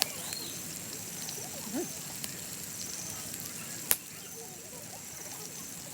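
Wood campfire burning with a few sharp pops, the loudest one near four seconds in.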